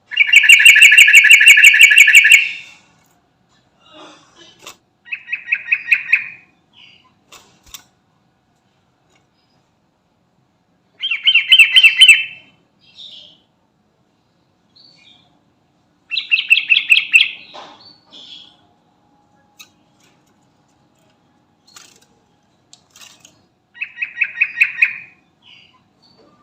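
Sooty-headed bulbul (trucukan) singing in five separate phrases. Each phrase is a quick run of repeated notes lasting about a second and a half, with pauses of several seconds between them. The opening phrase is the longest and loudest.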